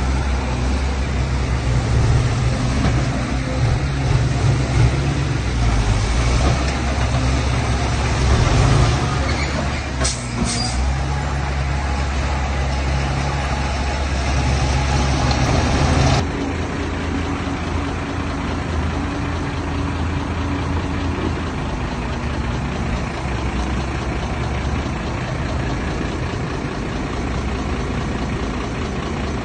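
Heavy diesel engine of earth-moving machinery running under load, with a brief high hiss about ten seconds in. Past the halfway point the sound drops suddenly to a quieter, steady engine running.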